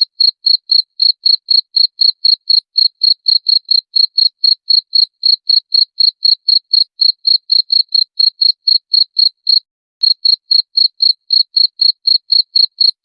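Cricket chirping in a steady, even rhythm of about four short high-pitched chirps a second, with one brief break about ten seconds in.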